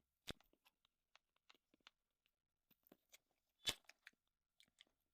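Near silence broken by scattered faint clicks and two sharper taps, one about a third of a second in and one about three and a half seconds in: soft mouth and utensil sounds of eating.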